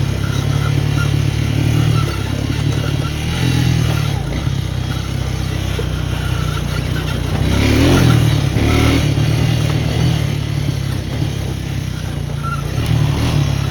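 Four-wheeler (ATV) engine running at low revs, with a brief rise in level about eight seconds in.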